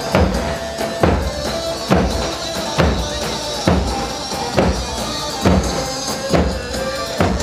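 Instrumental halay dance music from a live wedding band: a heavy drum beat a little faster than once a second, under a held keyboard melody.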